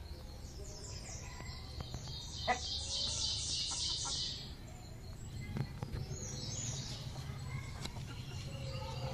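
A small bird chirping: a fast run of high chirps, several a second, between about two and four seconds in, then a few scattered chirps near the end. A few faint sharp clicks and a steady low hum lie underneath.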